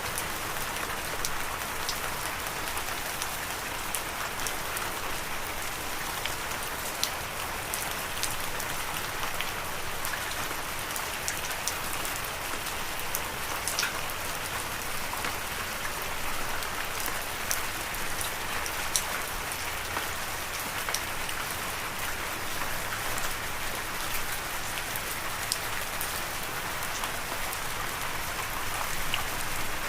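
Steady rain falling, an even hiss with many scattered sharp ticks of individual drops striking a surface.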